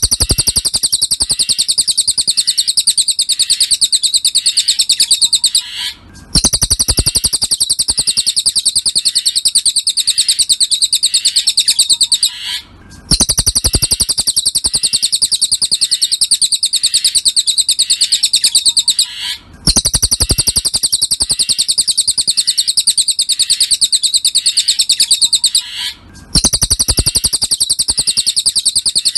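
Cililin bird song from a tutor (masteran) recording: a rapid, high-pitched chattering trill of fast repeated notes. The phrases last about six seconds each and are separated by brief pauses, the same phrase repeating in a loop.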